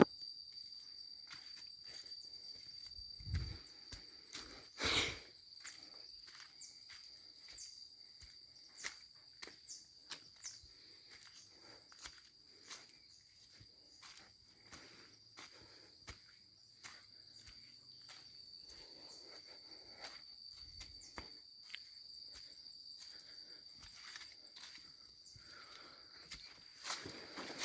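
Insects chirring, a steady high-pitched tone throughout, over scattered clicks and rustles of footsteps and handling among garden plants, with two louder knocks about 3 and 5 seconds in.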